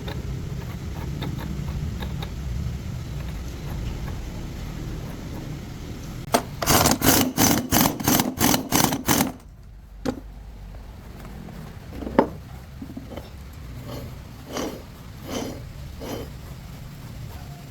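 Repair work with hand tools: a low rumble, then a fast run of about a dozen loud knocks over some three seconds, about four a second, followed by a few scattered single knocks.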